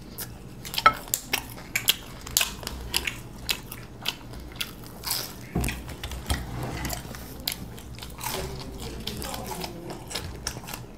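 Two people biting into and chewing fried, breaded chicken chops, a string of short, crisp, irregular bite and chew clicks.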